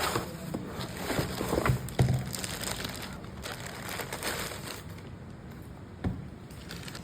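Laptop packaging crinkling and rustling as it is unwrapped and handled, with a few sharp knocks, the loudest about two seconds in.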